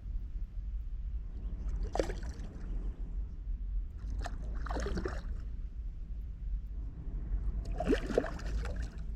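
Water sloshing and splashing in three short bursts, about two, five and eight seconds in, over a steady low rumble.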